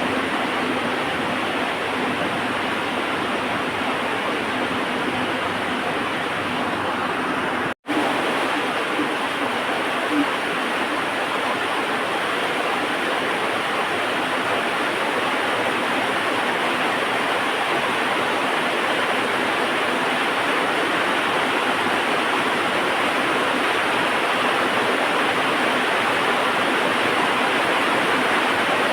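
Heavy rain falling steadily, a dense even hiss. It cuts out for an instant about eight seconds in, with a small click soon after.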